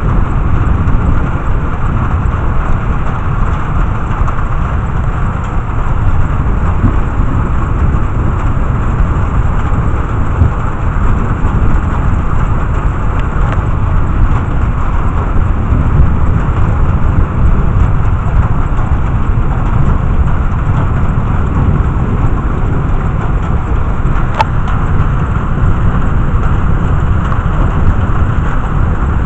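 Heavy rain falling steadily in a thunderstorm, with a dense low rumble underneath and one brief sharp click near the end.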